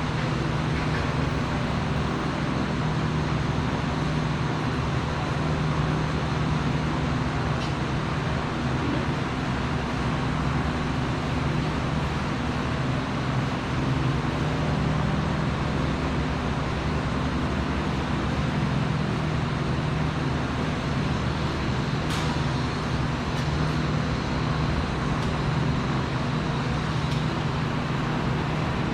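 Steady low mechanical hum with a constant hiss over it, and a faint click about 22 seconds in.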